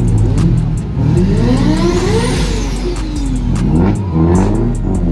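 Car engine revving: its pitch climbs for about a second and a half, then falls away, and rises and drops again more briefly near the end.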